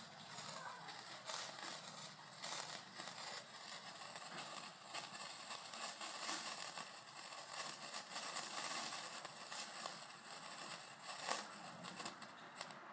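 Hand-held sparkler burning with a fizzing crackle of many small rapid pops, easing off near the end.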